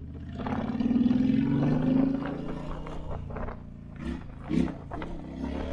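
Motorcycle engine revving up under acceleration, its pitch rising for about a second and a half, then easing back to a lower, steadier running note.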